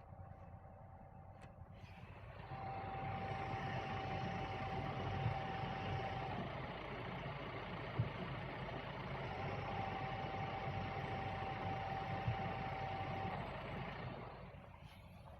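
Stationary 2019 Volvo XC90 T6 running in gear with a steady high whirring whine, which the owner ties to the Aisin TF-81SC automatic gearbox in Drive with manual mode selected. A louder rushing noise comes in about two and a half seconds in and dies away near the end; the whine sags in pitch and fades out partway through, then returns for a few seconds.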